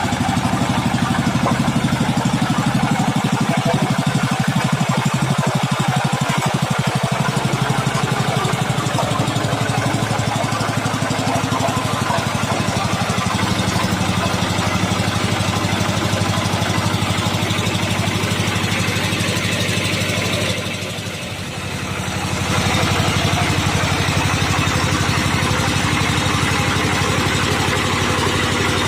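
Tractor engine of a small road roller (baby roller) running steadily, with a brief drop in loudness a little past two-thirds of the way through before it picks back up.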